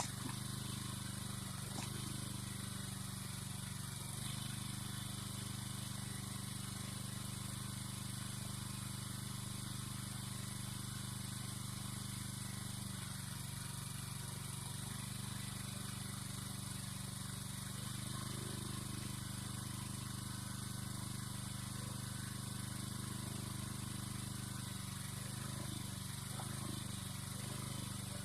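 An engine running steadily, its speed shifting slightly now and then.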